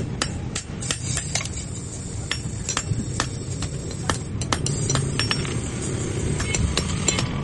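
Hammer striking metal on an anvil in quick, irregular light blows, several a second, over a steady low rumble.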